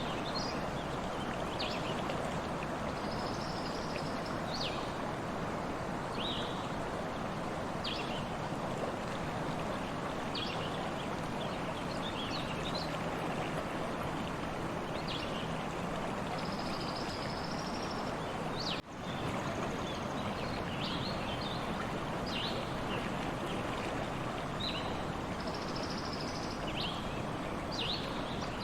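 Stream water flowing steadily, with short high bird chirps scattered over it throughout. The sound drops out for an instant about two-thirds of the way through.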